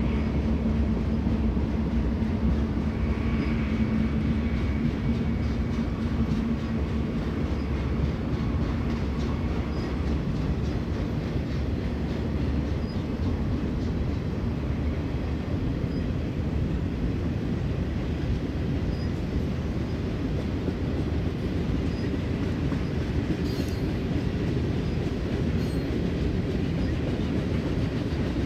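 BNSF mixed freight train's cars rolling past: a steady low rumble of steel wheels on rail, with faint clicks from the rail joints.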